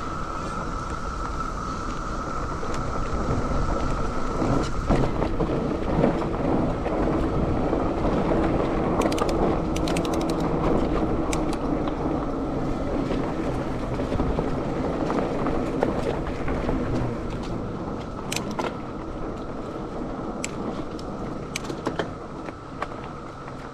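Loud chorus of cicadas droning steadily on one high pitch. Through the middle, louder rushing noise from riding and wind on the microphone, with scattered sharp clicks and rattles from the mountain bike.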